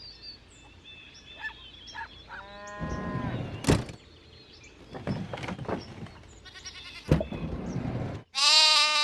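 Sheep bleating several times over farmyard noise, the loudest a long quavering bleat near the end.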